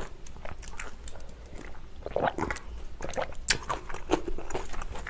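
Close-miked chewing and wet mouth sounds of eating spicy cold buckwheat noodles (naengmyeon), with small irregular clicks throughout.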